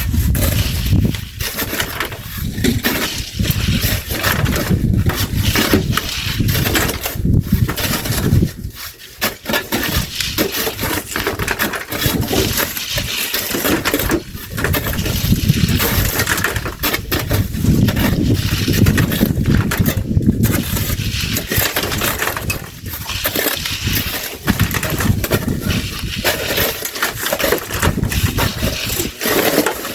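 Several shovels digging into sand and gravel and throwing it up by hand, an irregular run of scrapes with clinks of stones.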